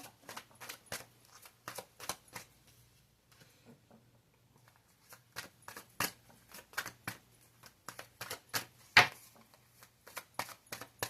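Tarot cards being shuffled by hand: a run of quick, irregular card flicks and snaps, pausing for about two seconds some three seconds in, with one sharper snap about nine seconds in.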